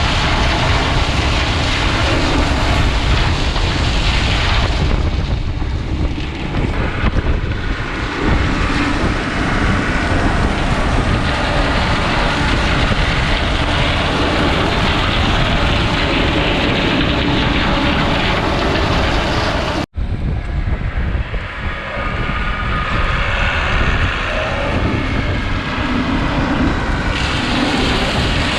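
Farm tractor running at speed, heard as a loud steady engine drone with heavy rumble. It drives the stalk chopper through the PTO on a test run. The sound breaks off sharply for a moment about twenty seconds in, then carries on.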